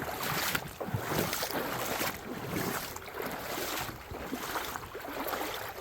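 Footsteps along a creek bed, a rough rhythm of steps every half second to a second, over the wash of flowing water.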